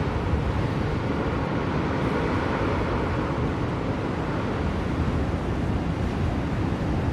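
Blizzard wind blowing steadily, a dense rushing noise heavy in the low end, with no breaks or gusts standing out.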